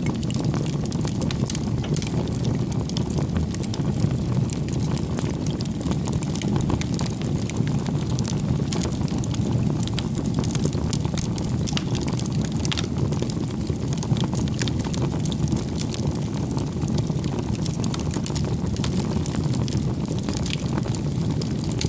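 Bonfire burning: a steady low roar of flame with frequent small crackles and pops of burning wood.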